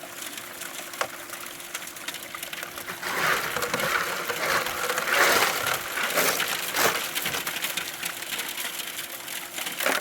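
Gravelly dirt being shoveled and dumped: a run of uneven gritty crunching and scraping strokes starting about three seconds in, over a faint steady hum.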